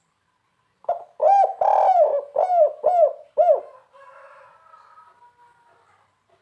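Spotted dove (tekukur) singing its 'kuk 3' cooing song: a run of about six short, arched coo notes over roughly three seconds, beginning about a second in.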